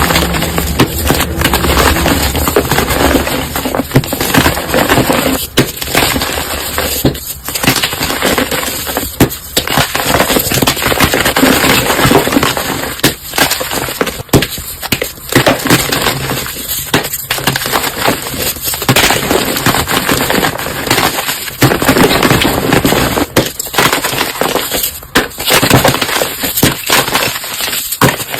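Objects being crushed: loud, continuous crunching and crackling, broken by brief pauses every second or two.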